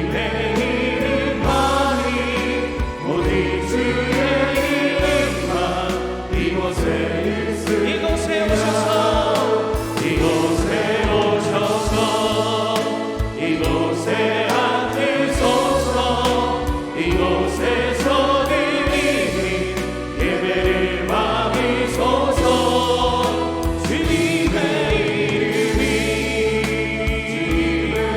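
Church praise team singing a worship song together over band accompaniment, with held bass notes that change every few seconds.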